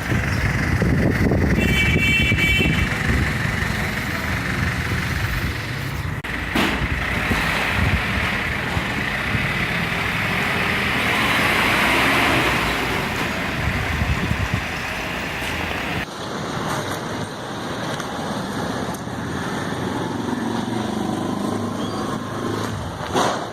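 Dust-storm wind gusting hard and buffeting the microphone with an uneven low rumble, over street traffic noise. A brief high tone sounds about two seconds in, and the sound changes abruptly about two-thirds of the way through, with less of the low rumble afterwards.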